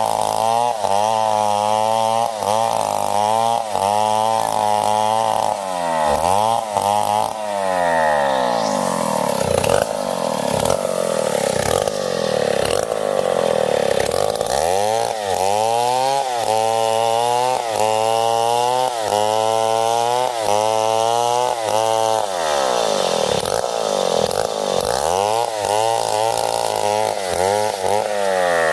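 Stihl 070 two-stroke chainsaw running at high revs in a cut through a tree trunk. Its engine pitch keeps dipping and rising as the chain bites and frees, with a few stretches of steady high revs.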